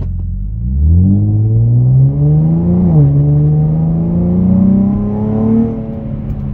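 Infiniti G35's V6 engine and modified exhaust under hard acceleration, heard from inside the cabin with the windows up: the note climbs, drops briefly about three seconds in as it shifts up, climbs again to around 4,000 rpm, then eases off near the end.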